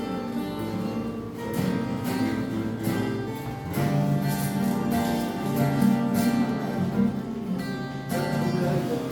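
Acoustic guitars strummed in a steady rhythm, playing chords under a melody.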